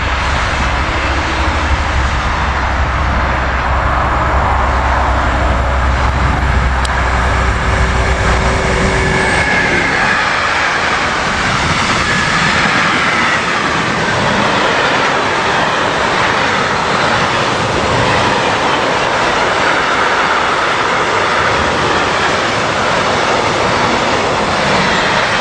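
Freight train hauled by a Railion electric locomotive passing close by: a loud deep rumble with a steady hum for about the first nine seconds, then the continuous rolling noise and clatter of sliding-wall covered wagons over the rail joints, with a faint wheel squeal.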